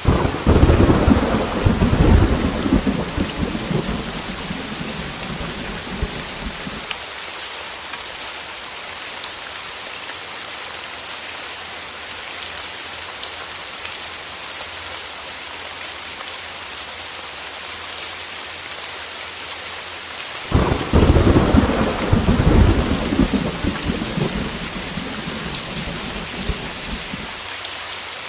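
Heavy rain falling steadily in an even hiss, with two rolls of thunder: one rumbling right at the start and dying away over about six seconds, and another breaking about twenty seconds in and fading slowly.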